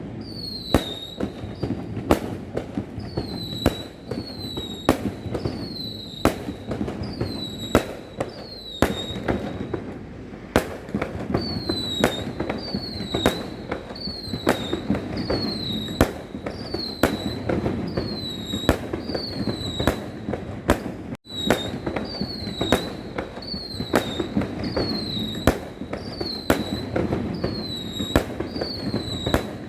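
Fireworks going off in quick succession, about one sharp bang a second, each followed by a brief falling whistle, over a steady low rumble.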